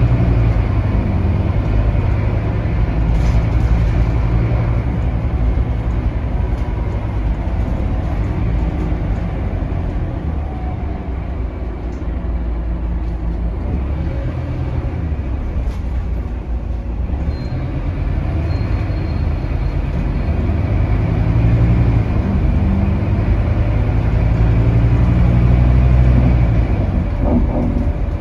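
Scania K280UB city bus heard from on board: its Scania DC9 five-cylinder diesel and ZF Ecolife automatic drivetrain running under way. The engine eases off around the middle and pulls harder again in the last third.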